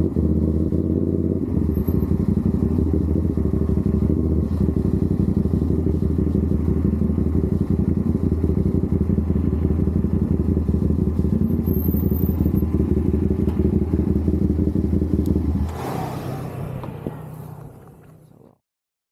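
CFMOTO 450SR's parallel-twin engine and exhaust running steadily at a constant pitch. About sixteen seconds in it drops suddenly to a quieter, lower note, then fades out.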